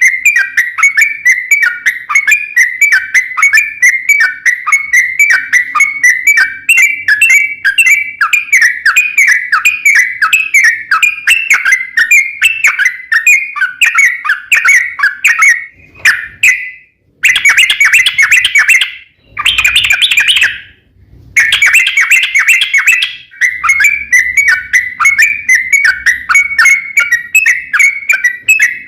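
Yellow-vented bulbul (trucukan) singing a long, fast run of bubbly chirping notes, several a second, without pause. Past the middle it breaks off abruptly twice.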